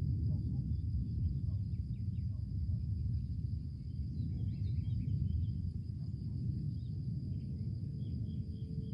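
Outdoor nature ambience from a film soundtrack: a steady high insect drone and scattered faint chirps over a low, even rumble.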